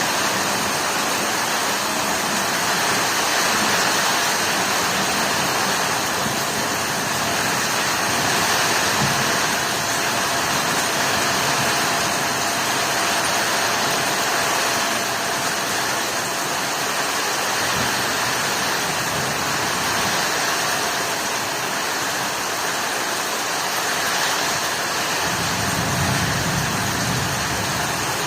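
Heavy rain falling steadily, a dense, even hiss. A low rumble joins it near the end.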